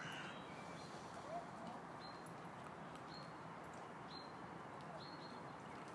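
Faint short, high bird chirps, roughly one a second, over a steady background hiss.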